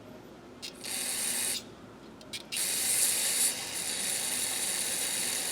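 Aerosol can spraying lubricant or solvent onto the joint of rusty pliers to free it: a short hiss about a second in, then a longer hiss of about three and a half seconds, each starting with a small click of the nozzle.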